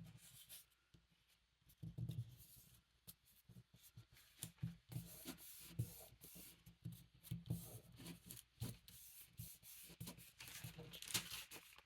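Paper and card being rubbed and scraped by hand in short, irregular strokes, with light taps of handling.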